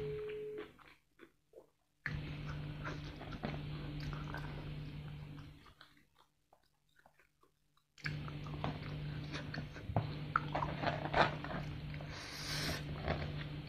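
Close-miked chewing and biting of sauce-coated crispy fried chicken: small wet crunches and mouth clicks over a low steady hum, dropping out to near silence twice. A short hiss comes near the end.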